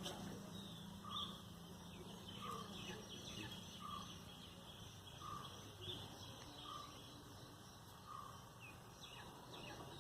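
A bird calling faintly: a short note repeated evenly about every second and a half, with a few higher chirps.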